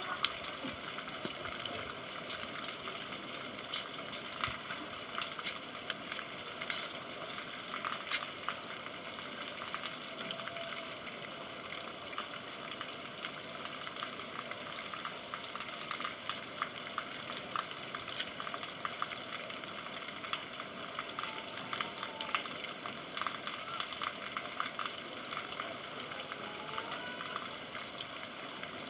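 Steady rain falling: an even hiss dense with small drop ticks and splats.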